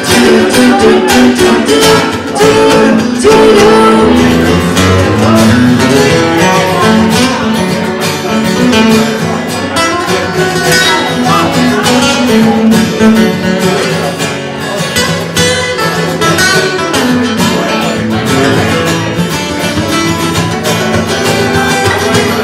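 Acoustic guitar strummed in a steady, driving rhythm, played live as the instrumental intro of a song.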